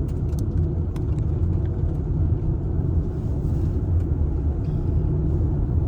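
Steady low rumble of a car driving along the road, engine and tyre noise heard from inside the cabin, with a few faint clicks in the first second.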